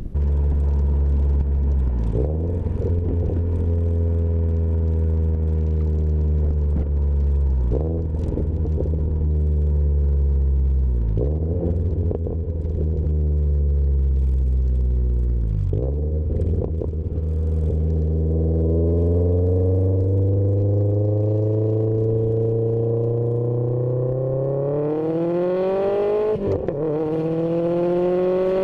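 Subaru flat-four engine through an aftermarket exhaust, running at a steady pitch with a few brief dips. Over the last ten seconds or so its pitch climbs steadily as the car accelerates, with a short drop near the end.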